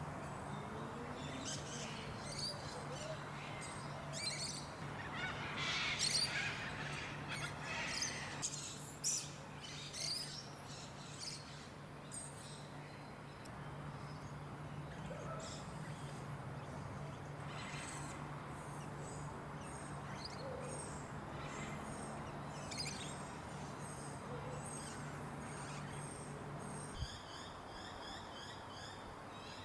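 Birds chirping and calling, busiest in the first third, over a steady low hum. Near the end a click cuts the hum and a fast, evenly repeating high chirping takes over.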